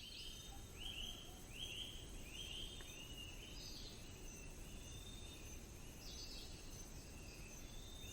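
Faint forest birdsong: one bird repeats short chirped notes about once a second, with a few higher calls from other birds, over a faint steady high tone and a low background hiss.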